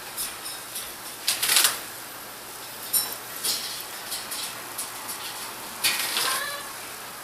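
Light clattering and rustling in short, irregular bursts, with a couple of brief high chirps from a pet cockatiel.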